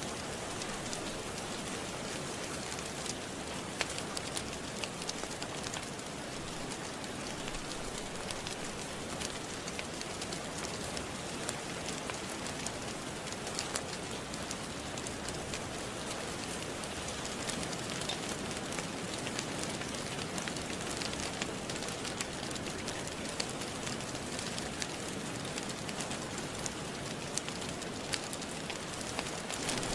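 Steady rain falling, with small scattered crackles and pops of a wood fire through it.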